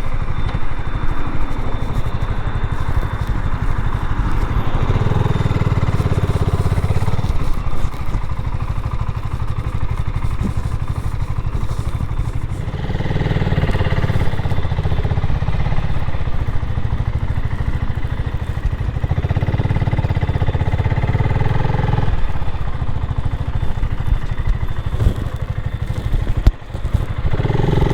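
BSA Gold Star 650 motorcycle engine running, its sound swelling and easing off several times, with a brief drop a little before the end.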